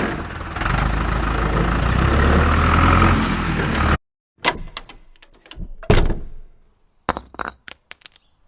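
A loud, steady rumbling noise that cuts off abruptly about four seconds in, followed by a string of sharp knocks and clicks.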